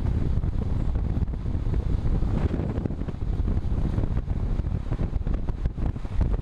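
Wind rushing over the microphone of a camera on a moving road bicycle, a steady low buffeting with uneven gusts.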